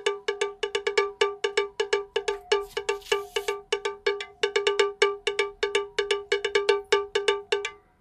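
Rapid metallic strikes, all on the same pitch like a cowbell, about five or six a second, stopping just before the end.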